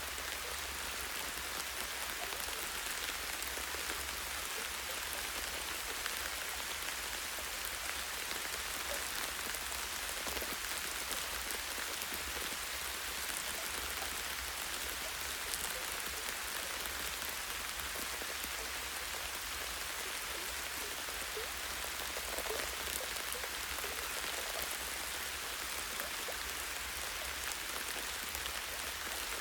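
Light, steady rain falling on tree branches and leaves: a continuous hiss made of many fine drop ticks, with a faint low rumble underneath.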